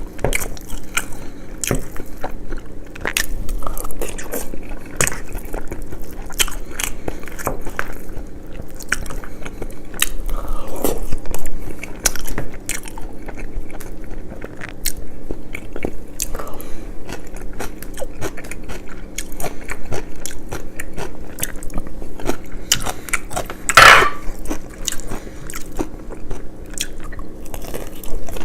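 Close-miked eating: steady chewing and biting with many sharp, crisp crunches, and a louder crunching bite near the end.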